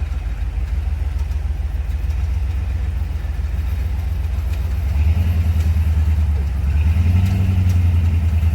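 Off-road vehicle's engine running at low speed on a trail, its low rumble growing louder about five seconds in and again near seven seconds.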